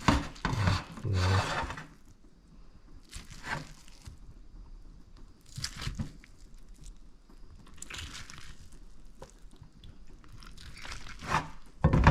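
A plastic spatula scraping and tearing through slow-cooked beef brisket in a handful of short scrapes and soft rips, the loudest in the first couple of seconds. The meat pulls apart with little effort, a sign of how tender it is.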